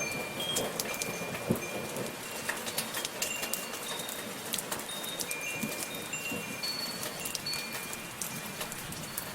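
Steady soft rain falling, with scattered drops striking a surface, and metal wind chimes sounding high, short ringing notes here and there throughout.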